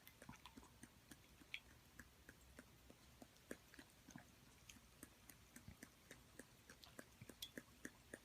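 Shiba Inu puppy eating noodle soup from a bowl: faint, irregular chewing clicks and mouth smacks, a few a second.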